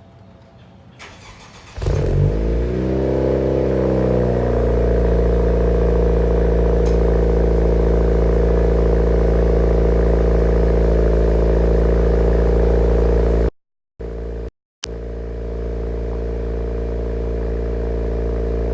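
2018 Honda Civic Si's 1.5-litre turbocharged four-cylinder starting cold through a Greddy Supreme SP exhaust. It fires about two seconds in, flares up in revs, then settles within a couple of seconds into a steady cold idle.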